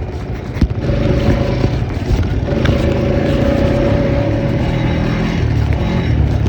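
All-terrain vehicle engine running under way, loud and rough, with a steady whine over it from about a second in to past the middle.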